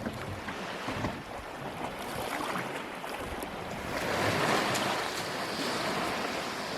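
Waves washing, with wind buffeting the microphone; a louder surge of water comes about four seconds in.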